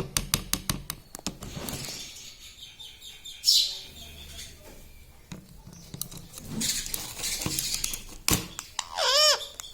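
Ring-necked parakeet calling and moving about: a quick run of clicks in the first two seconds, scattered clicks and rustling, then one high squawk near the end whose pitch rises and falls.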